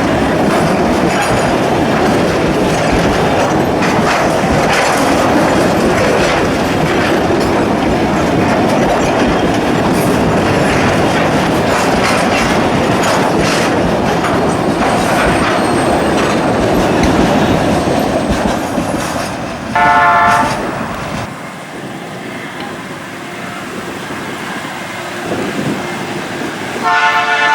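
Freight train rolling by: a steady rumble with the clatter of wagon wheels over the rails. About 20 seconds in, a diesel locomotive horn gives a short blast, the rolling noise then drops away, and the horn sounds again right at the end.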